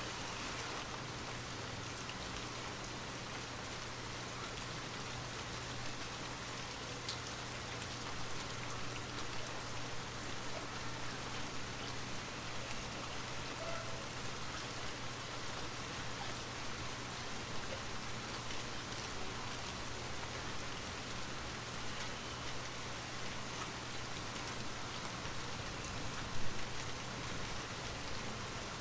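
Steady rain falling and pattering on a surface, with a low steady hum beneath it and a brief louder patter about 26 seconds in.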